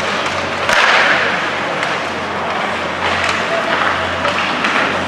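Ice hockey game noise in an arena: a steady rush of noise with a louder swell about a second in and a few faint clicks, the kind made by skates on ice, sticks and the crowd.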